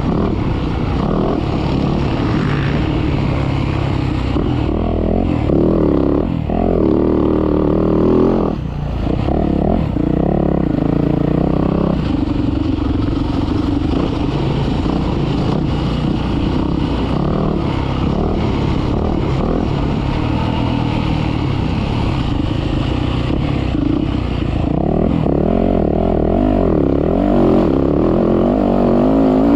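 Motocross dirt bike engine running hard, its pitch rising and falling over and over as it revs out and shifts.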